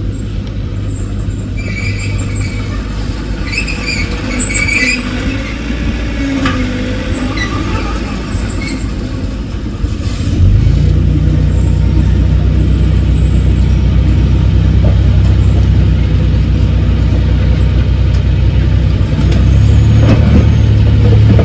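Heavy diesel engine of earthmoving machinery running with a low drone. About ten seconds in it jumps louder and holds there, as under load, and rises again near the end. A few faint high squeaks come between about two and five seconds in.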